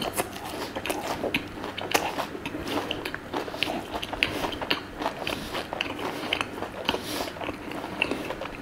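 Close-miked chewing, a person eating with many small, irregular crisp clicks and crunches.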